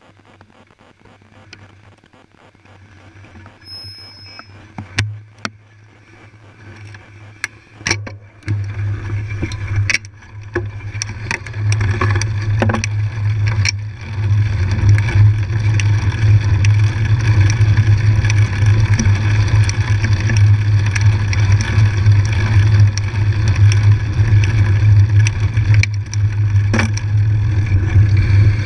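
Wind rushing over the microphone and trail noise while riding: fairly quiet at first with a few sharp knocks and rattles, then a loud steady low rumble that builds over a few seconds as the ride picks up speed and holds, with occasional knocks from bumps.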